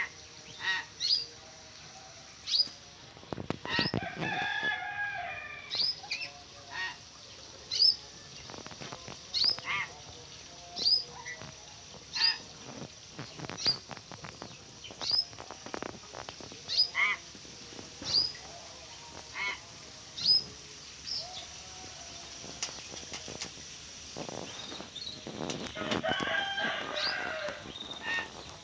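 Birds calling: a short sharp chirp repeated about every second and a half, with two longer harsh calls, one a few seconds in and one near the end.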